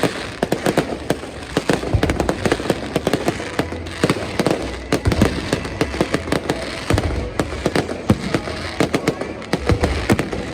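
Fireworks going off in a dense, unbroken string of sharp bangs and crackles, several a second, over a low rumble.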